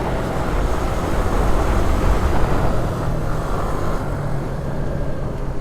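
Yamaha R3 motorcycle under way at a steady speed: the engine running with a steady low hum, mixed with wind and road noise.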